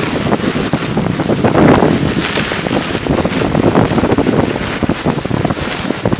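Loud, steady rush of storm water and rain, with wind buffeting the microphone.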